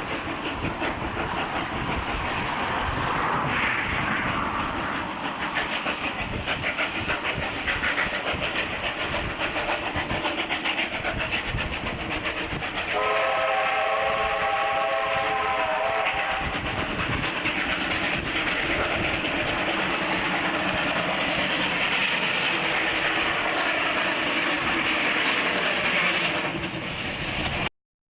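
Steam locomotive running hard, with fast exhaust beats and wheel clatter. A whistle sounds for about three seconds roughly halfway through. The sound cuts off suddenly near the end.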